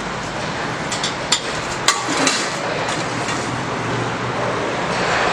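Steady roadside traffic noise with a few sharp clicks or clinks about a second in and again near two seconds.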